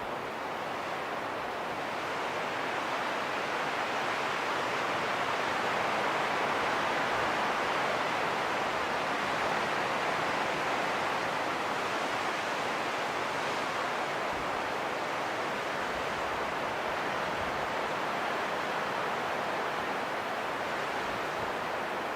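Steady rushing wind, an even hiss that swells gently over the first several seconds and then eases a little.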